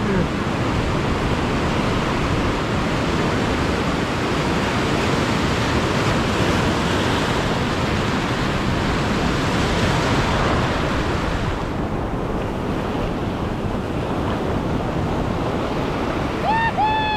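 Surf washing steadily over a shallow reef, with wind buffeting the microphone.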